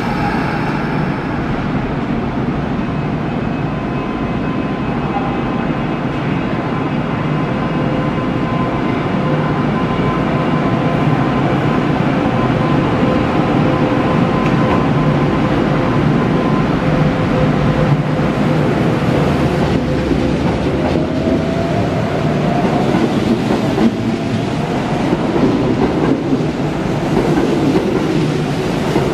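Kintetsu electric train running at the platform: a steady, loud running noise with a held tone through the first half, and a tone that rises in pitch about twenty seconds in.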